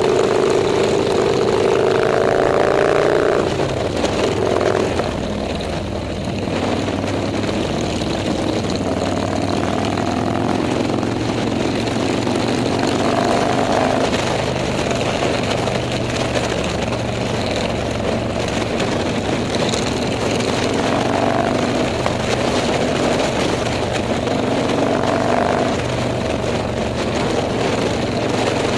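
Motorcycle engines running on the road under a steady rush of wind and road noise, their pitch drifting up and down with speed.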